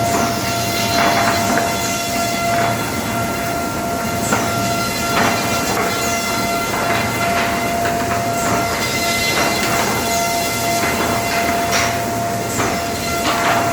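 Four-sided wood moulder running, its cutterhead spindles giving a steady whine over a low rumble, with short sharp rushing noises roughly every second or so.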